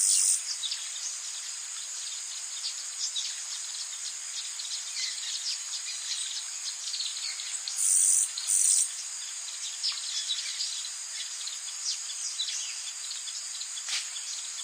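Rainforest ambience: a steady, high-pitched chorus of insects with many short falling bird chirps over it. A louder, higher buzz swells up briefly right at the start and twice in quick succession about eight seconds in.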